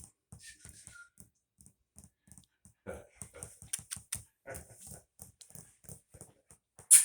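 Maltipoo puppies moving about: a run of light, irregular clicks and taps, several a second, thickening after about three seconds, with a faint short squeak about a second in.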